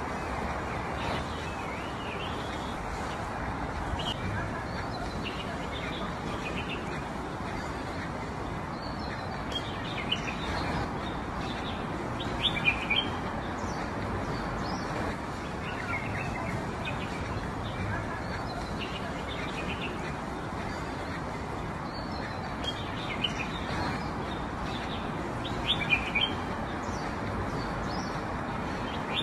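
Small birds chirping in short, scattered bursts over a steady outdoor hiss. The chirps are loudest about halfway through and again near the end.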